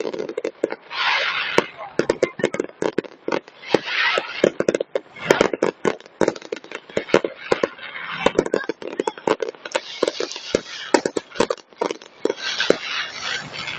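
Aerial fireworks display: a dense, irregular run of sharp bangs, with crackling between the reports.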